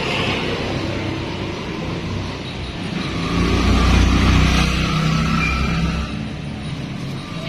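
Yamaha Nmax scooter's single-cylinder engine running, swelling louder in the middle as it is revved, then settling back.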